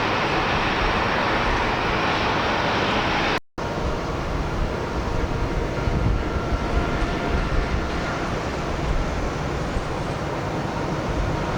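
Airliner jet engines running at takeoff power, a steady, loud noise. It breaks off abruptly about a third of the way in and picks up again as another jet's engine noise, with gusty wind buffeting the microphone.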